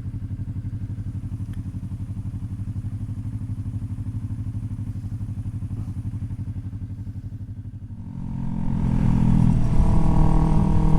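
Motorcycle engine idling with an even pulse. About eight seconds in it gets louder and runs at a steady higher speed as the bike pulls away.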